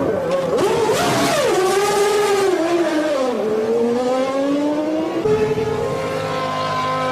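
Formula One V10 engine running loud: its pitch rises, falls away over a couple of seconds, climbs slowly again, and from about five seconds in holds at a steady note.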